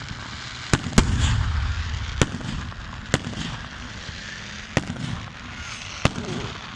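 Fireworks going off: about six sharp bangs at irregular intervals over a steady crackling haze, with a low rumble following the bang about a second in.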